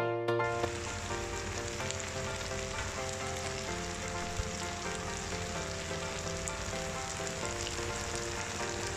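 Okra masala frying in hot oil in a pan: a steady sizzling hiss. Soft background music plays underneath, its louder piano-like notes dropping away about half a second in.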